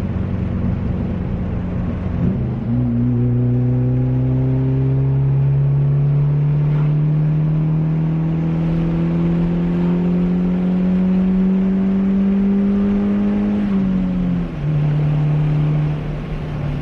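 Turbocharged Honda D15B four-cylinder engine accelerating under throttle, its pitch climbing slowly and steadily through a long pull in one gear. Near the end it drops back as the throttle is released. The turbo is building almost no boost, only about 2 psi, because its blow-off valve has come off.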